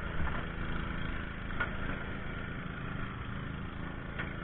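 An engine running steadily, with a few brief clicks over it.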